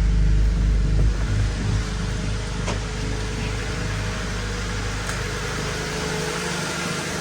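1999 Honda Civic's non-VTEC four-cylinder engine idling just after start-up on a newly fitted fuel filter, running smoothly. The sound settles to a steadier, lower level about two seconds in, with a few faint clicks.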